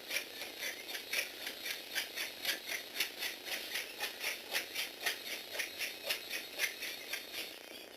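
Lego Technic bug robot's plastic mechanism running, its parts rattling and clicking in a regular rhythm of about three to four clicks a second. The clicking dies away near the end.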